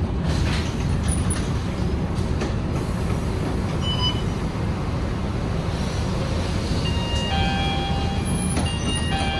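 Scania K230UB bus running, a steady low rumble of engine and road noise. Near the end, several thin high tones sound together over the rumble.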